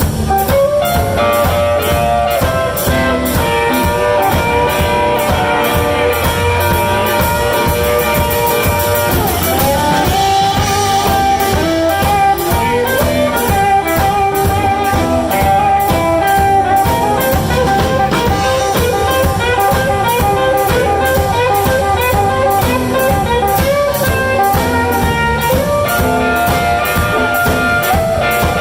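Blues band playing live: an instrumental passage over a steady drum beat.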